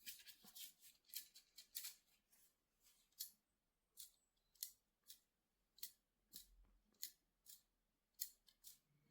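A string of faint, sharp clicks at an uneven pace, about a dozen of them, with a quicker cluster in the first two seconds.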